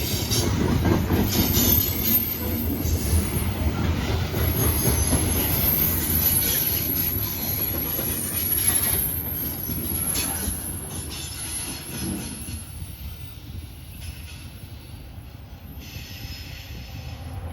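Train rolling past, its cars rumbling and clacking on the rails while the wheels squeal with wavering high-pitched tones. The rumble eases off about twelve seconds in.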